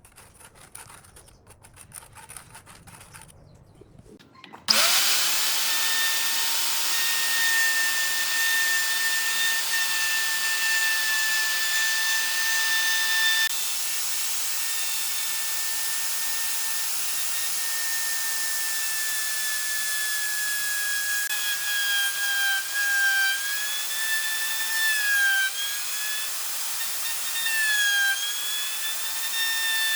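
Electric power tool switched on about four and a half seconds in, spinning up to a steady high whine. From about twenty seconds its pitch dips and recovers again and again as it works into the wood.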